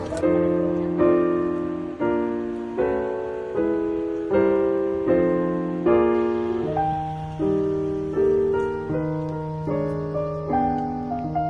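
Slow, gentle piano music, a chord struck about every three-quarters of a second, each fading before the next. Rain hiss cuts off right at the start.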